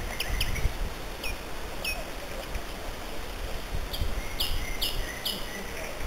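Songbird singing: short, clear, downward-sweeping notes, a few spaced out at first, then a louder quick run of four or five about four seconds in, over a steady low rumble.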